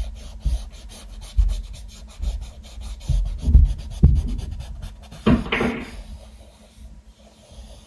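Quick rubbing and scrubbing strokes on a painting canvas, with a few low thumps, and a short breathy sound a little past five seconds in.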